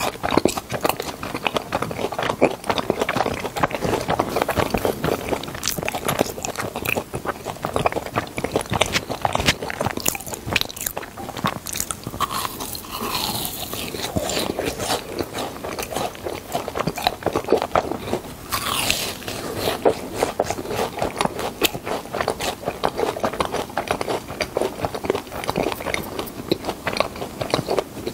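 Close-miked crunching and chewing of fried, crumb-coated cheese balls: many small crackling crunches as the crust is bitten and chewed, going on steadily.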